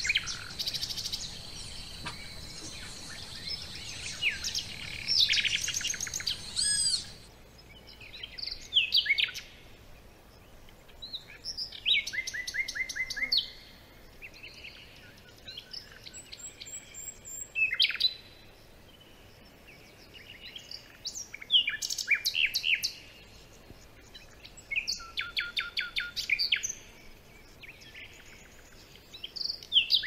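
Several wild birds calling and singing, a mix of short chirps, rapid trills and quick down-slurred notes in bursts every few seconds. A steady high-pitched hum runs under the birds for the first several seconds.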